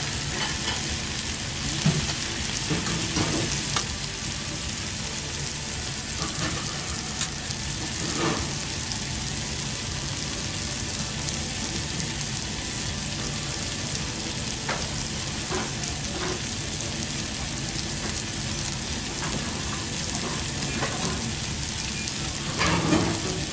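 Chicken bones and chopped vegetables sizzling steadily on a hot flat-top griddle. There are a few sharp clicks in the first seven seconds or so.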